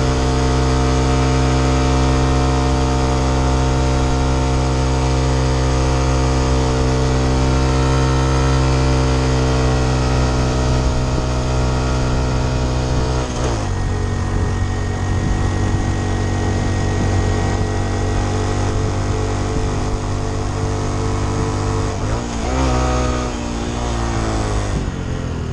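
Honda Trail 125's single-cylinder engine running under way at a steady pitch. About halfway through the note drops suddenly and stays lower, and near the end it swings down and up again, as with gear shifts or throttle changes.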